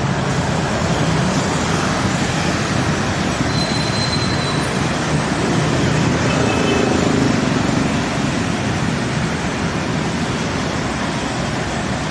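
Steady engine and road-traffic noise, an even rumble with no distinct event.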